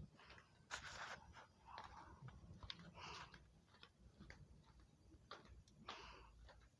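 Faint, irregular ticking and crackling of a wood fire burning in a homemade washing-machine-drum fire pit.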